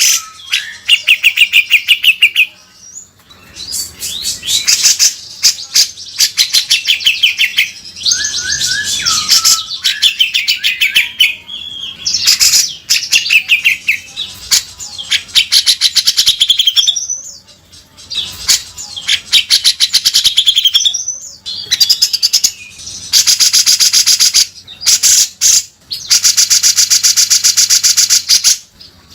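Cucak jenggot (grey-cheeked bulbul) singing in its rough 'beset' style: repeated bouts of rapid, harsh rattling notes mixed with shorter chattering and whistled phrases. The longest rattles, about two to three seconds each, come near the end.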